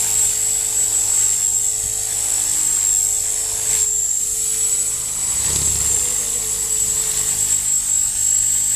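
HK450 radio-controlled helicopter in flight, with a steady high whine. About four seconds in, a short harsh rushing 'bashaaa' breaks in, followed by a low rumble: an abnormal noise whose cause the owner does not know.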